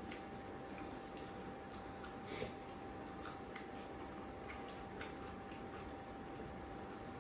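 Eating sounds at a meal: chewing with scattered small clicks and smacks, irregular and a few a second at most, over a faint steady tone.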